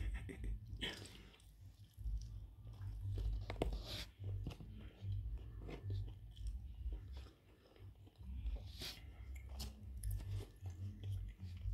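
Close-miked chewing of a bite of steak burrito: uneven soft mouth sounds with a few short wet clicks and smacks.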